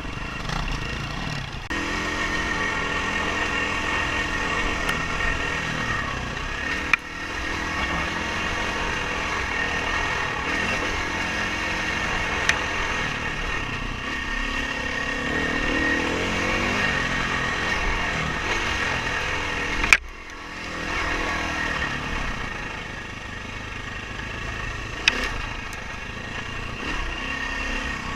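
Dirt bike engine running under changing throttle while being ridden, with noise throughout and a few sharp knocks. About two-thirds of the way through the engine drops off briefly, then picks up again with rising pitch.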